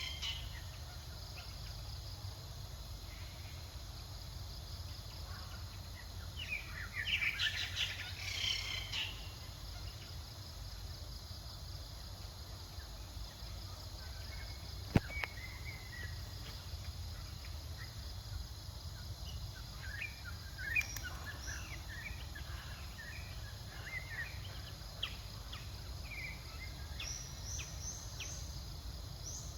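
Outdoor ambience: a steady high insect drone over a low rumble, with bursts of high chirping calls twice and a single sharp click about halfway through.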